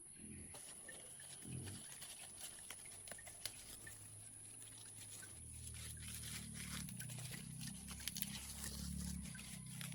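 Low animal calls, short ones at first and then a denser run through the second half, over light crackling.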